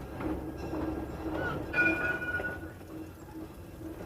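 Narrow-gauge train running, its engine beating steadily, with a brief high two-note tone about two seconds in.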